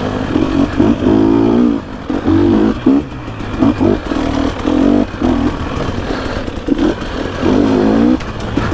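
2021 GasGas EC300's 300 cc two-stroke engine being blipped in a series of short throttle bursts, rising and falling about a dozen times, as the dirt bike is worked through tight trail at low speed.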